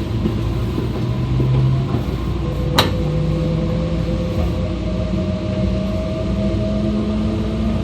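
E2 series Shinkansen running sound heard from the car deck: the Mitsubishi IGBT inverter and traction motor tones rise steadily in pitch over the rumble of the running gear as the train gathers speed. A single sharp click sounds about three seconds in.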